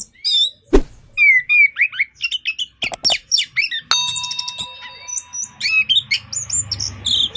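Orange-headed thrush singing vigorously: a fast, varied run of whistled and chattering notes with many quick rising and falling glides. A couple of sharp clicks come near the start and around three seconds in.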